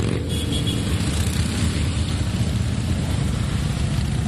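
Motorcycle engines running as a line of bikes rides past, a steady low rumble.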